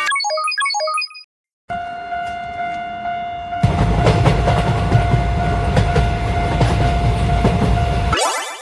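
A quick run of short chime notes, a brief silence, then a steady held tone, joined a few seconds in by the loud rumble and clatter of a train passing; both stop suddenly and a fast rising whoosh follows near the end. Cartoon-style train and sound-effect audio.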